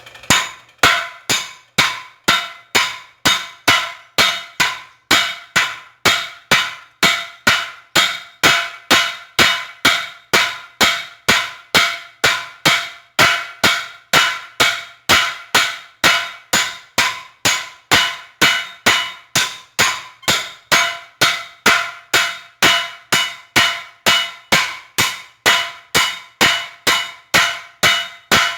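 Forging hammer striking hot chainsaw-bar steel on an anvil, in a steady rhythm of about two blows a second, each blow ringing. The thick bar is being hammered thinner to draw out the knife blank.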